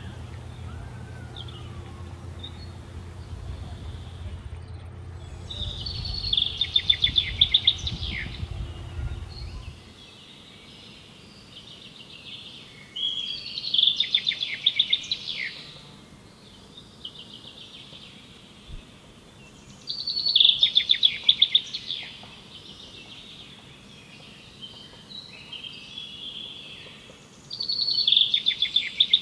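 A songbird singing the same rapid trilled song phrase four times, each about two seconds long and roughly seven seconds apart. A low steady hum underneath stops about ten seconds in.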